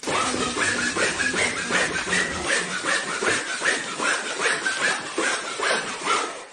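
A pet animal's quick, repeated short calls, about three a second, kept up without a break.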